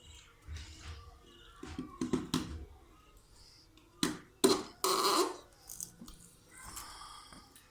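Cage birds chirping in short calls, with a burst of loud knocks and clatter about four to five seconds in.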